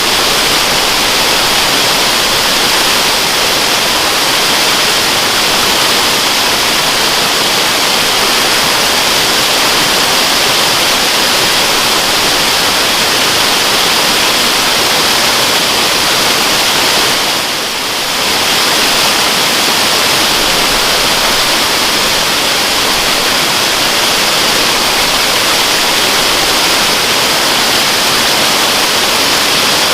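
Waterfall: a steady rush of falling water, dipping briefly a little past halfway.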